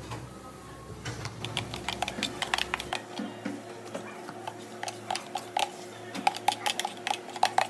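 A rapid run of small, hard clicks and clinks of café-counter work, some with a short ringing tone, over a steady low hum.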